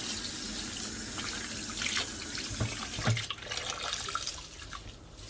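Tap water running into a pot while rice is washed by hand, with splashes as the grains are swirled. About three seconds in the steady rush fades, leaving scattered splashes and drips.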